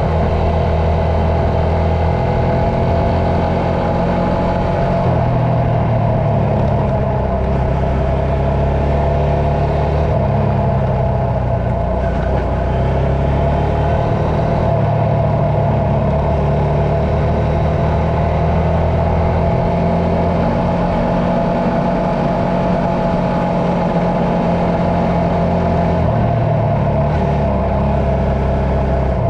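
A motor engine running continuously, its pitch shifting up and down several times as the revs change.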